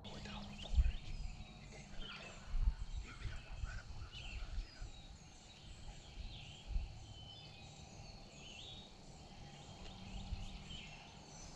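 Several birds chirping and calling in short, high notes, with low thumps on the microphone now and then.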